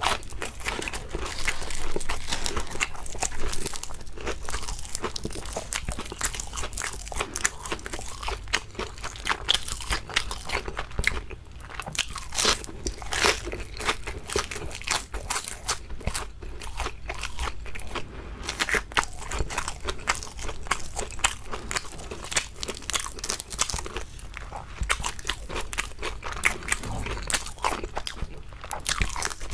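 Close-miked crunching and chewing of crispy shrimp, a dense run of sharp crunches as mouthfuls are bitten and chewed.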